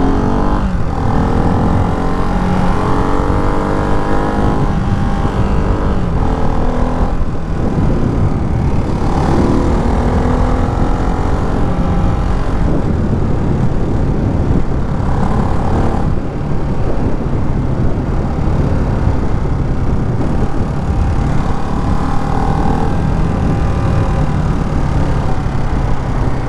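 Single-cylinder engine of a Ducati Hypermotard 698 Mono motorcycle accelerating hard, its pitch climbing over the first several seconds and dropping at a shift about seven seconds in, then running on at speed.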